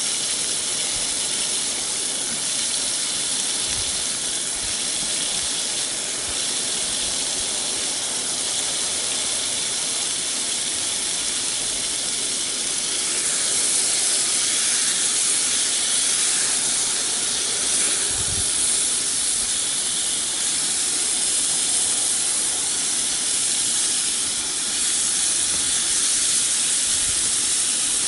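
Vegetables sizzling steadily in a hot cast-iron Nitori skillet: a continuous frying hiss that grows a little louder about halfway through.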